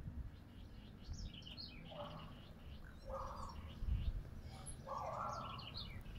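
Small birds chirping repeatedly over a low rumble, with three short rough noises in the middle range, the last the longest.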